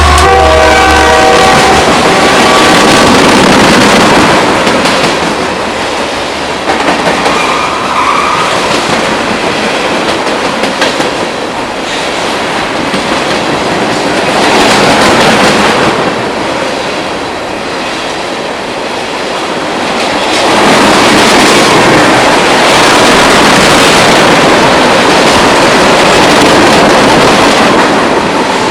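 Freight train passing close by: the horn of the lead EMD SD40-2 diesel locomotive sounds over its engine rumble until about a second and a half in, then the freight cars roll past with steady wheel-on-rail noise and clickety-clack that swells and eases.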